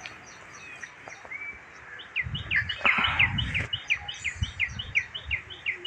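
A bird calling a fast, even series of short, falling chirps, about four a second, starting about two seconds in, over a low rumble.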